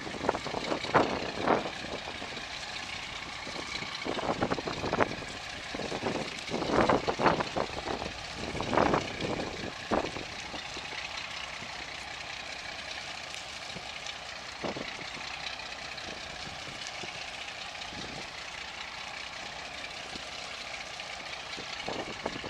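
Steady engine and water noise of a boat under way, with irregular louder rushes during the first ten seconds, then a steadier stretch.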